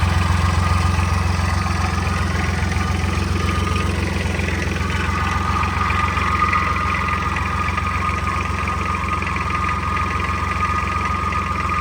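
Engine of a homemade 26 hp tractor idling steadily, with a thin high whine over it that gets stronger about halfway through.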